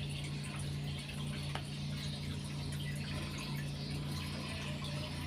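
Water trickling and splashing steadily over a steady low hum, with one faint click about one and a half seconds in.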